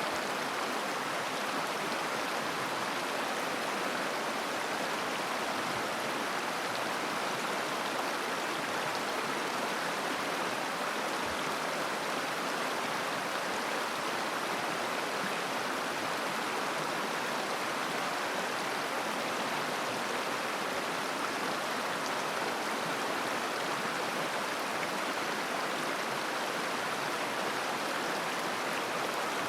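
A shallow mountain river flowing over rocks: a steady babbling rush of water.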